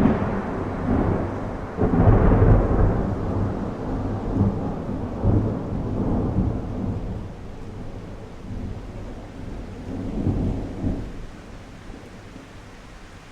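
Thunder rumbling in several swells over steady rain, dying away over the last couple of seconds.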